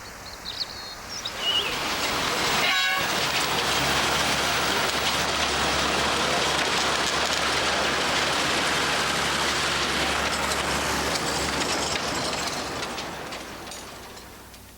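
Narrow-gauge logging train running, its noise swelling about two seconds in, holding steady, then fading away near the end.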